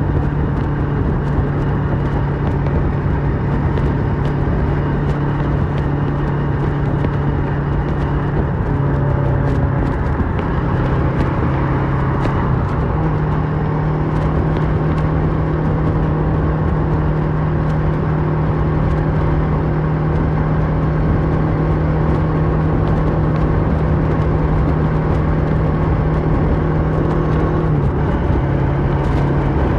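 2008 Kawasaki Versys 650 parallel-twin engine through a MIVV slip-on exhaust, running steadily at cruising revs. Its pitch drops briefly about nine seconds in, picks up again a few seconds later and dips once more near the end, as the throttle or gear changes.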